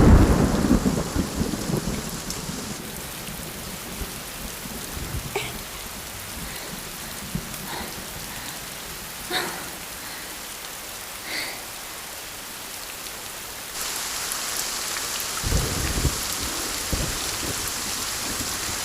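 Steady rainfall with thunder. A rumble fades over the first couple of seconds, the rain grows heavier about two-thirds of the way through, and low rumbles of thunder follow.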